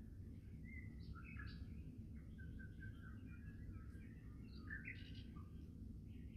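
Small birds chirping in many short, scattered notes, over a faint low steady rumble.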